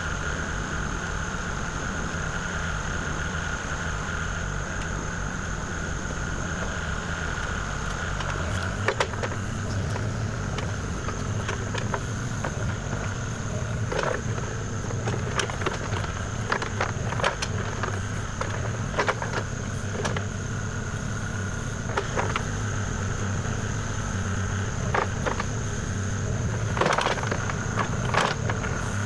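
Kubota KX040 mini excavator's diesel engine running steadily with a high, even whine over it. From about nine seconds in, scattered sharp knocks and cracks come through as the machine works.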